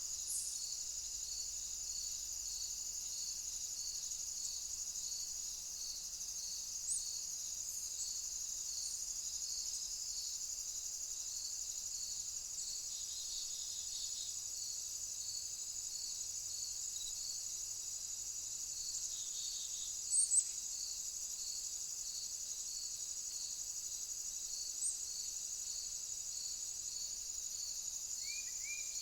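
Insects chirring: a continuous high trill, with a second insect chirping in a steady rhythm of about three chirps every two seconds. A few brief high chirps stand out over it, the loudest a double chirp about twenty seconds in.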